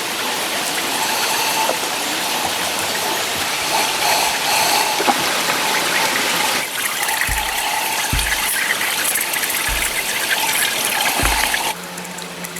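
Steady rush of running or gushing water, with four soft low thuds in the second half; the rushing cuts off suddenly near the end.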